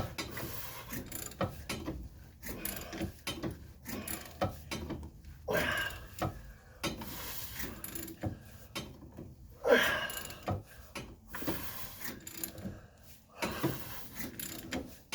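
A ratchet wrench clicks in repeated strokes as it cranks a bolt in a homemade press, forcing a seized shaft out of a lower control arm bushing. A few louder rasping strokes come about six, ten and fourteen seconds in.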